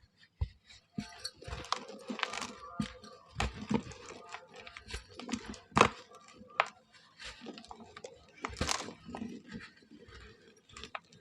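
Dry molded shapes of mud, charcoal and red sand being crushed and crumbling, giving a run of irregular crunches and crackles.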